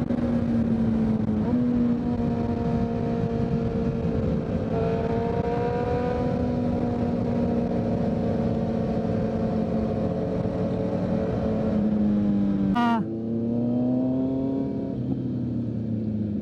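2023 Kawasaki Z900 inline-four running through a full Leo Vince aftermarket exhaust at steady cruising throttle, its note drifting gently up and down. About 13 seconds in, a quick rising rev cuts off and the engine settles to a lower, slightly quieter note.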